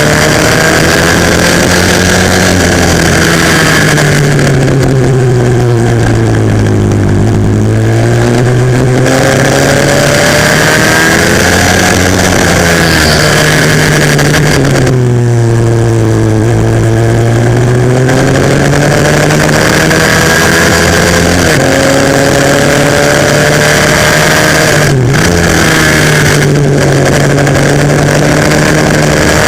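A 140cc pit bike engine under racing load, heard onboard. The revs fall steeply twice, about a quarter of the way in and again near the middle, as the bike brakes into corners, and climb back up each time as it drives out. Shorter dips later on mark further corners or gear changes.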